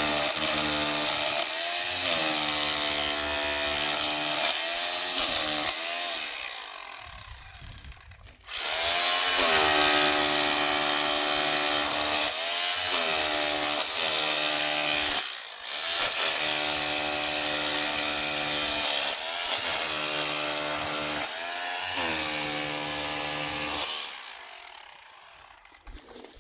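Power tool cutting a channel into masonry: a steady motor whine over a gritty grinding hiss. It runs in several long stretches, winds down about six seconds in, starts again a couple of seconds later with a few short breaks, and fades away near the end.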